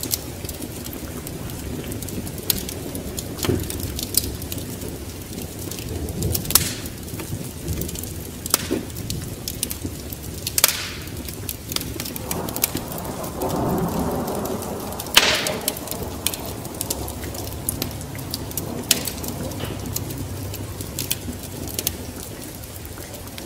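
Wood fire crackling with scattered sharp pops over a steady bed of rain, with a low rumble of thunder swelling about halfway through.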